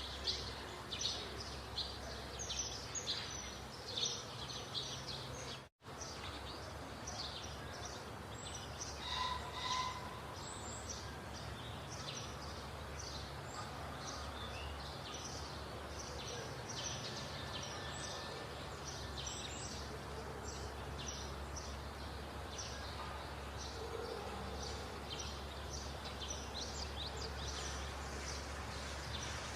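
Small birds chirping rapidly and continuously over a steady low background hum, with a momentary gap in the sound just before six seconds in.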